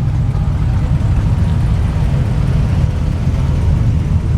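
Steady low rumble of classic cars' engines cruising by, without a break.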